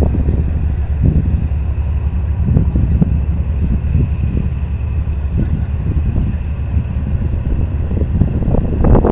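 Boat engine running steadily during a tow, a low rumble with a faint steady whine above it. Wind buffets the microphone in gusts, stronger near the end.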